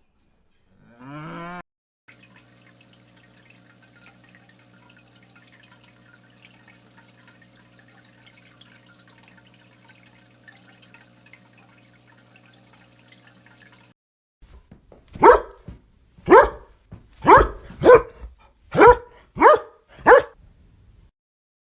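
A dog barking seven times in quick succession, short sharp barks over about five seconds, after a long stretch of faint steady hum.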